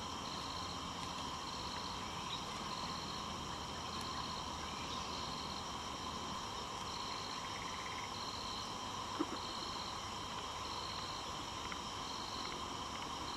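Tropical forest insects calling: a steady shrill chorus with a chirp pulsing about every second and a quarter. A single short knock comes about nine seconds in.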